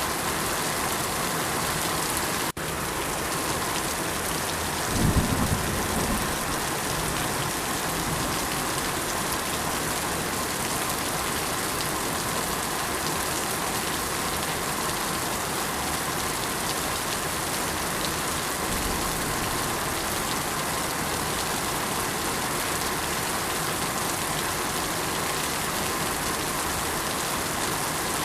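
Steady rain falling on surfaces, an even hiss of many drops. The sound briefly cuts out about two and a half seconds in, and a short low rumble rises over the rain about five seconds in.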